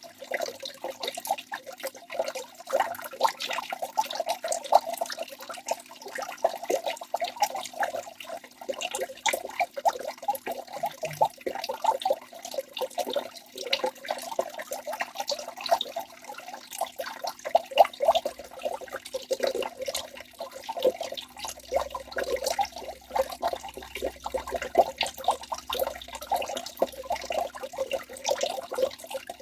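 Waterfall: water falling and splashing without a break, many quick sharp splashes over a steady wash of water noise.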